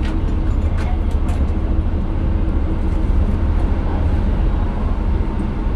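Steady low rumble of a Class 158 diesel multiple unit heard from inside the carriage, with a few faint clicks in the first second and a half.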